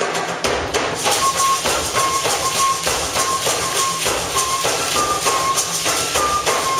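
Traditional-style folk music: a flute plays a line of short held notes that step up and down a little, over dense, rapid percussion of drums and rattles.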